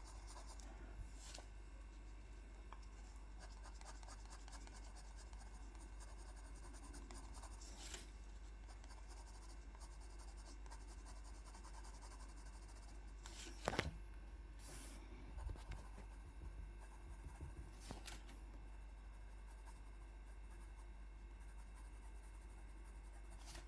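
Faint scratching of a drawing tool on paper as an area is coloured in, with a few soft clicks or taps, the sharpest about 14 seconds in.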